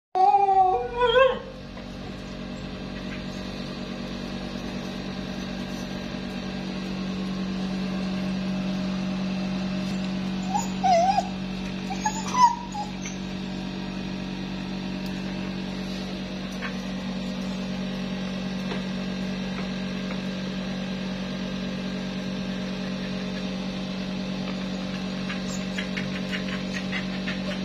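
A puppy whimpering in short, wavering high cries: a burst right at the start, then a couple more around ten and twelve seconds in, over a steady low hum. The cries are those of a puppy with its leg tangled in a rope.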